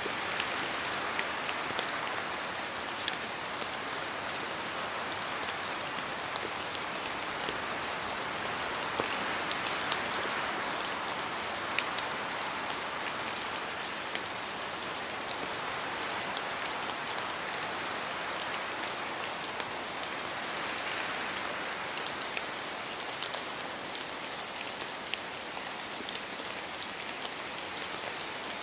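Steady rainfall, with many separate drops ticking sharply on a surface over an even hiss.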